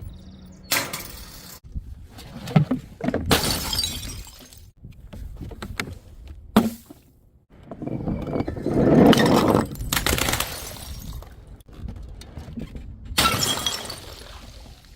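Glass bottles smashing one after another, about six separate crashes of breaking glass. The longest and loudest comes about nine seconds in.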